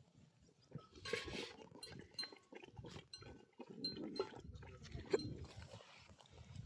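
Irregular light clinks and knocks with brief ringing tones, over a low rumble.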